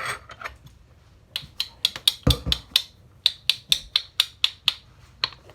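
A rapid run of light, sharp clicks and taps, about four to five a second, with a couple of duller knocks about two seconds in.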